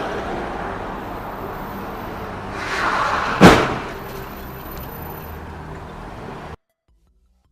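Steady road noise from a moving car, swelling briefly and then broken by a single sharp bang of a vehicle collision about three and a half seconds in. The noise carries on after the impact and cuts off suddenly near the end.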